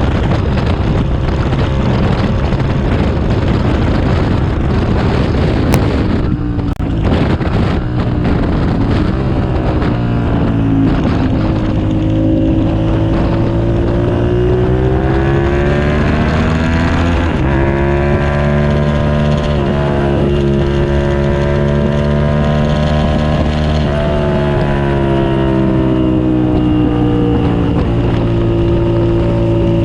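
2007 Suzuki SV650S's V-twin engine under way on a race track, with wind rushing over the microphone. About six seconds in the engine note drops briefly, then the revs climb steadily for several seconds, hold high, and ease off near the end.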